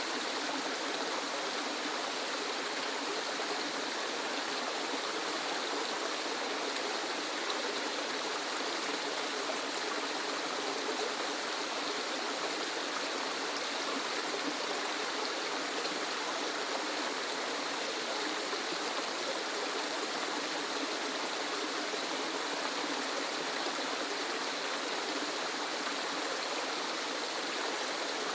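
Waterfall: a steady, unbroken rush of falling water, hissy and even, with little deep rumble.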